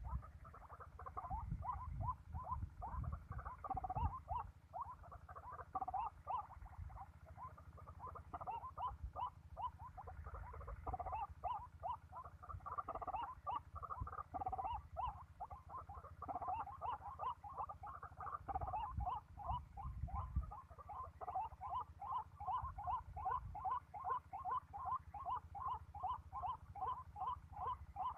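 White-breasted waterhen calling: a long, rapid series of repeated croaking notes, about two to three a second. A low rumble underlies the calls until near the end.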